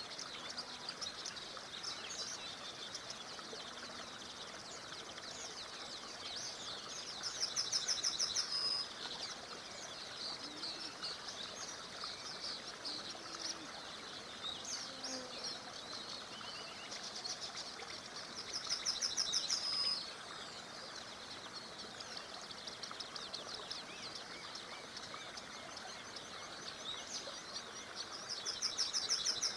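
Several songbirds singing and chirping over a steady faint rush of water from a small river. One bird repeats a fast, even trill of about two seconds three times, roughly every ten seconds.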